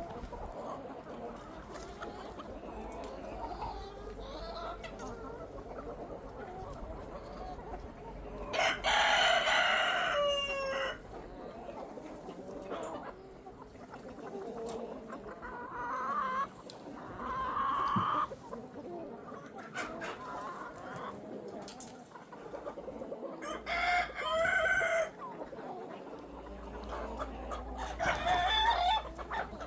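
Chickens clucking, with a long rooster crow about a third of the way in and several shorter loud calls later.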